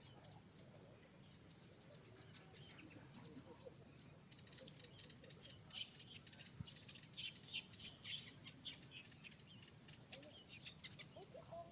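Insects droning steadily at a high pitch, with many quick, high chirps scattered over the top throughout.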